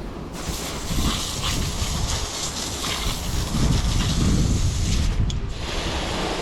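Water jet spraying onto a car wheel to rinse it, a steady hiss that starts just after the beginning and breaks off briefly about five seconds in.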